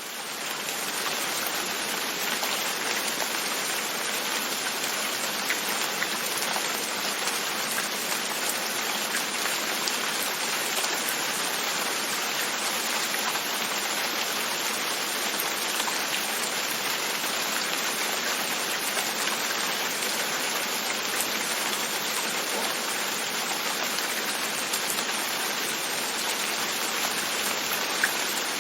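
Steady rain, with scattered drops tapping on a window pane, fading in over about the first second.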